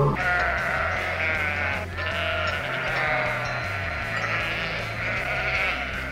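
Sheep bleating: a wavering, quavering bleat, then a longer run of bleating from about two seconds in.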